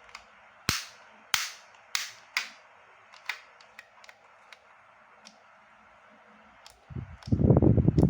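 Spring airsoft pistol, a Kimber M1911 copy: four sharp snaps in quick succession about a second in, then fainter scattered clicks of its mechanism. A loud low rumbling noise takes over near the end.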